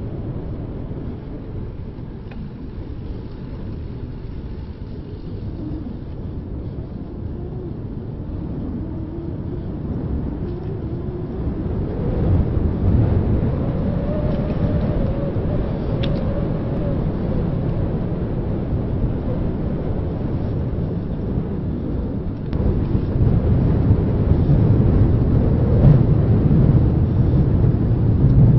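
Wind buffeting a handheld camera's microphone while cycling: a low rushing rumble that grows louder over the second half.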